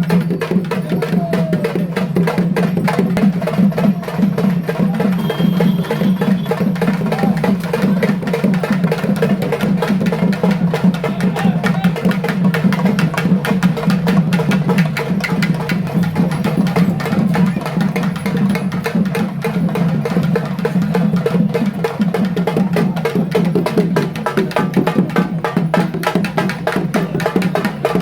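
Fast, continuous ritual drumming for the pettai thullal dance, dense strokes without a break, with voices mixed in.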